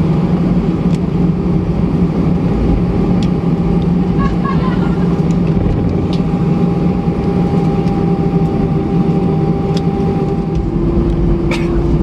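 Cabin noise of an Airbus A320 with its jet engines running: a loud, steady hum with a few held engine tones, one dropping slightly in pitch near the end, and a brief knock shortly before the end.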